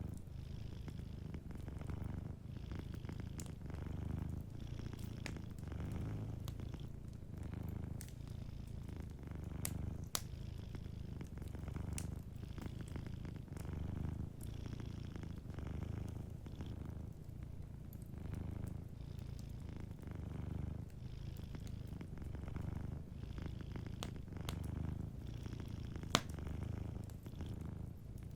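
Domestic cat purring steadily, the low purr swelling and easing about every two seconds with its breaths, over a wood fire crackling with scattered sharp pops, two of them louder, the second near the end.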